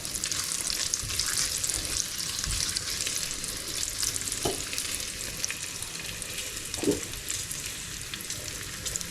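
Pieces of smoked pork belly fat sizzling and crackling steadily in a frying pan as the fat renders out. Two brief scrapes stand out, a little past midway and again later.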